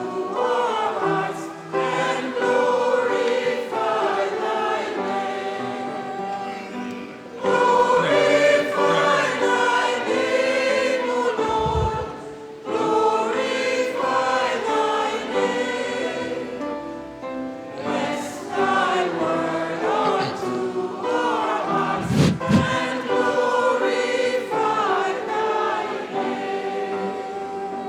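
Church choir singing a hymn, phrase after phrase with short breaths between, the last phrase fading away near the end.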